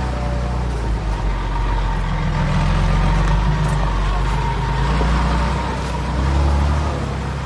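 Heavy diesel engine of earthmoving machinery running steadily, its low rumble swelling twice, with a faint steady whine above it.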